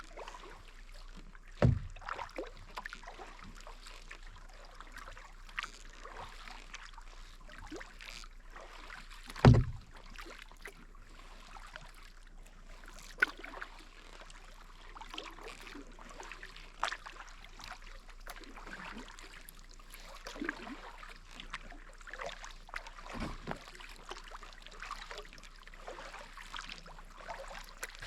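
Kayak paddling: paddle blades dipping and water splashing and dripping in small scattered crackles, with a few low thumps, two of them loud.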